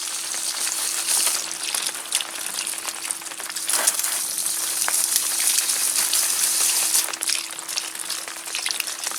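Rain pattering on an umbrella overhead: a steady hiss with many small scattered drop ticks.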